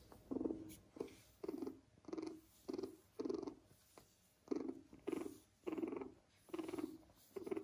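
Kitten purring as its head is stroked, in a steady rhythm of pulses about two a second.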